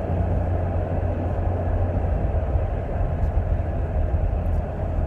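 Steady low rumble with a hiss over it, the even running noise of a vehicle.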